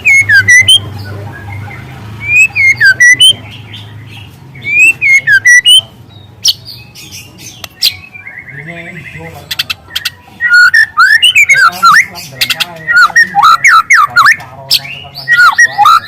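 White-rumped shama singing loudly in short phrases of rising and falling whistled notes mixed with rapid high chips, a phrase every two or three seconds at first. From about ten seconds in the song becomes a dense, nearly continuous run. The singer is a young, still-speckled bird whose song includes long canary-like bursts.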